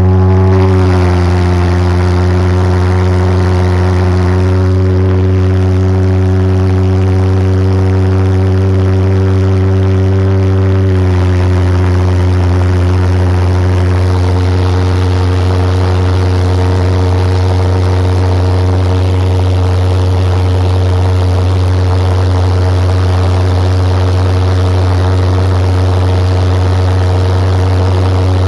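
A go-kart's homemade jet engine running with a loud, steady drone: a deep tone with a stack of overtones above it. The pitch settles about a second in and shifts slightly about eleven seconds in.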